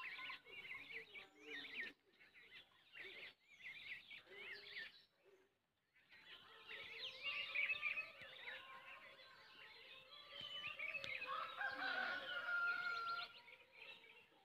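Birds chirping busily, many short calls overlapping, with a brief drop-out about six seconds in and a longer held call from about 11 to 13 seconds.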